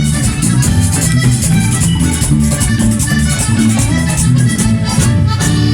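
Live vallenato band playing an instrumental passage: accordion over bass and a steady rattling percussion beat.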